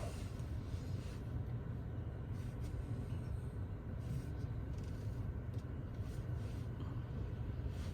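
Steady low rumble of automatic car wash machinery, with a few faint brief hisses over it.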